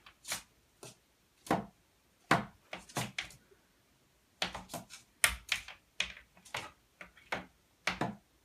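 African grey parrot making a run of sharp clicks and taps, irregular and sometimes in quick clusters, about two or three a second.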